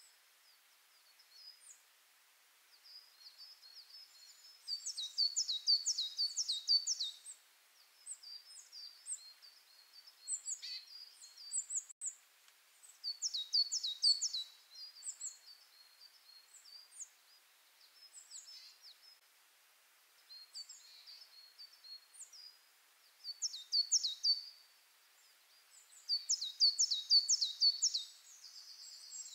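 Bird song: high, quick chirps, broken by four louder bursts of rapid falling notes.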